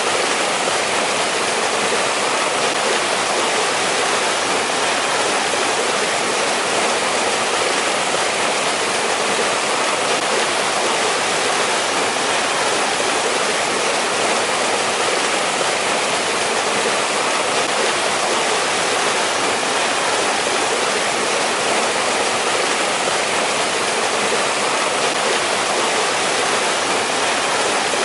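Mountain stream flowing over rocks in a valley, a steady, even rushing of water.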